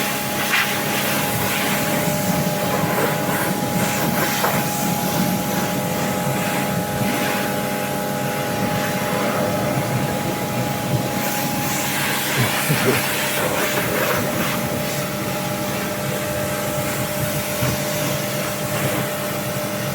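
Pressure washer running continuously: its motor and pump hum on a steady pitch under the hiss of the water spray.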